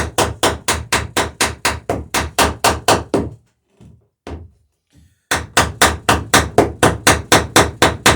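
Hammer rapidly peening a copper boat rivet, spreading and rounding the rivet head, at about five strikes a second. The strikes stop a little after three seconds in, leaving a gap of about two seconds with a single sharp tap, then start again at the same pace.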